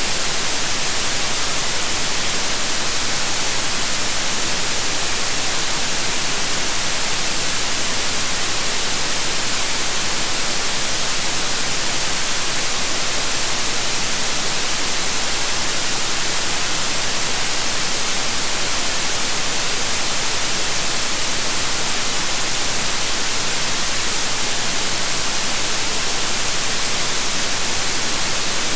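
Steady synthetic white noise: an even, unchanging hiss with no rhythm or events.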